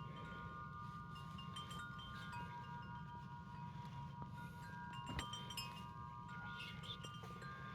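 Wind chime ringing faintly, several long tones entering one after another and overlapping, over a low steady hum.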